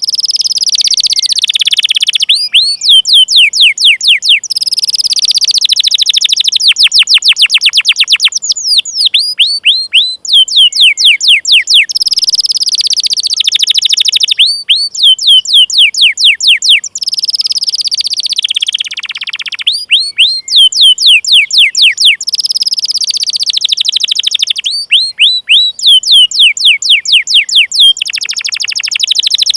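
Domestic canary singing loudly. Runs of rapid, sharp downward-sweeping 'cuit cuit' chirps alternate with fast rolling trills, the pattern repeating over and over.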